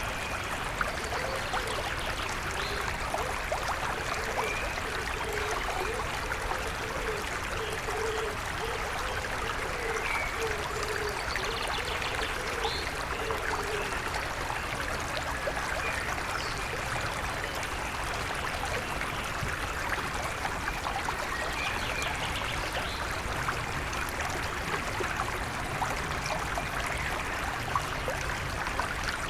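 A river stream flows steadily with a constant rush of water, and faint, short bird calls come through now and then.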